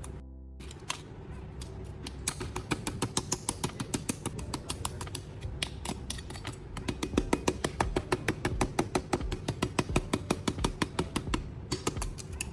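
Rapid, even light tapping, about six taps a second, over quiet background music; the taps grow louder about halfway through.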